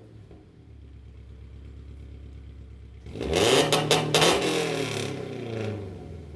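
Toyota 86's flat-four boxer engine breathing through Rev Works unequal-length headers and a Perrin full exhaust, idling for about three seconds, then revved once. The revs climb sharply, peak with a few crackles, and fall back to idle.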